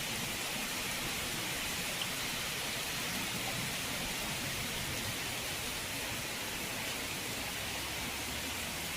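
Steady rain falling, a constant hiss with no break.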